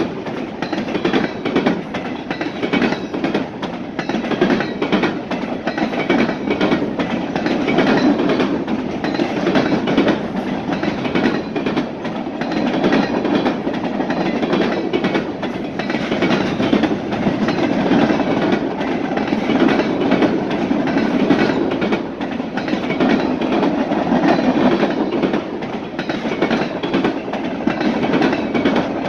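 Freight train cars rolling past at a steady speed, a continuous rumble and rattle with a dense run of wheel clicks over the rail joints.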